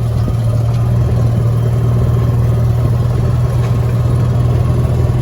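Engine of a farm vehicle running steadily while being driven, a constant low drone that neither rises nor falls.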